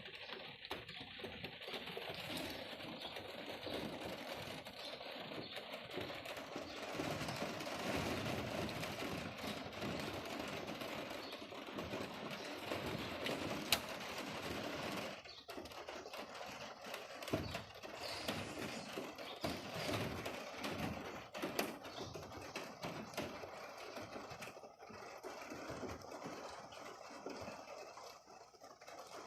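Rain falling steadily, a dense patter of drops, with one sharp tap about 14 seconds in.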